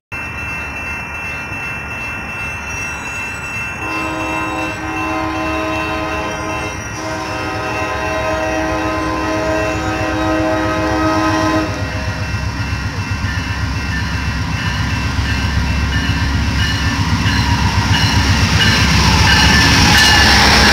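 Amtrak Pacific Surfliner locomotive sounding two long horn blasts while it approaches, the first about 3 s long and the second about 5 s. After the horn stops, the train's rumble and wheel clatter grow steadily louder as the locomotive draws up and passes close by.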